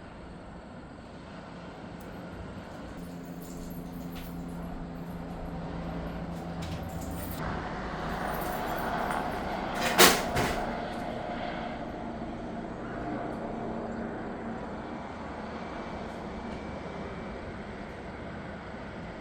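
A steady engine hum, with one sharp, loud knock about ten seconds in.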